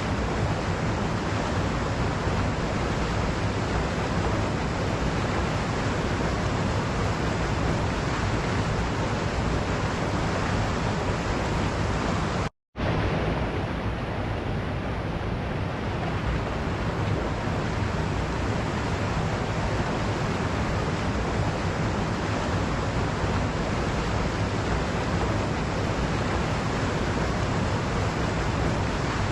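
Waterfall: a steady rush of falling water that cuts out to silence for a split second about twelve and a half seconds in, then resumes.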